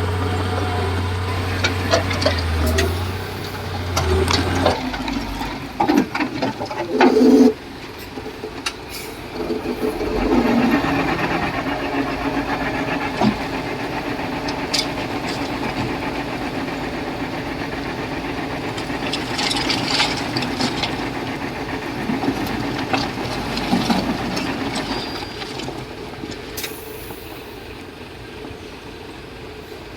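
Heavy construction machinery working, most likely the Komatsu D31P bulldozer: a deep diesel engine drone that drops away about four seconds in, followed by scattered clanks, knocks and hissing.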